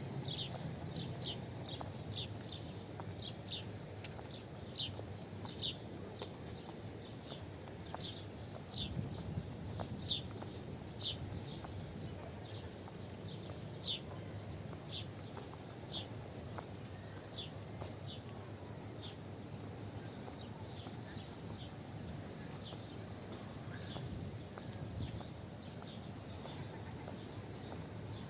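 Birds chirping: short high chirps, several a second at first and thinning out after the middle, over a steady low outdoor background murmur.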